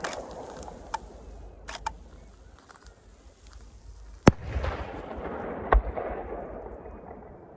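Aerial fireworks bursting: a string of sharp bangs, two close together near the two-second mark and the loudest about four seconds in, each trailing off in a fading wash of noise.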